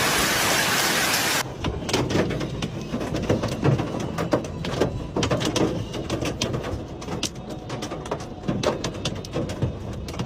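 Hail and rain hissing steadily, cut off about one and a half seconds in. What follows is an irregular clatter of many hailstones striking hard surfaces.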